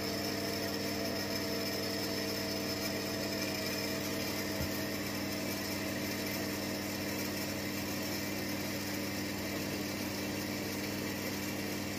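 Steady hum with several fixed tones from a Worcester Bosch Greenstar combi boiler while its heating system is being pressurised with water after a flow-manifold repair.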